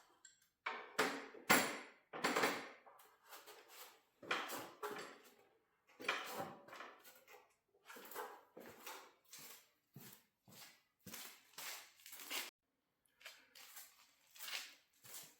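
Steel winding bars clanking against the winding cone of a garage door torsion spring as the spring is wound up to add tension: a run of irregular metal knocks, about one to two a second.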